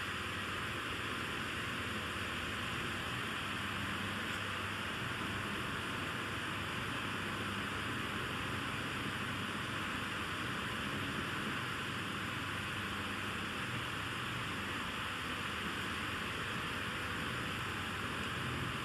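Steady, even hiss with a low rumble beneath it, unchanging throughout.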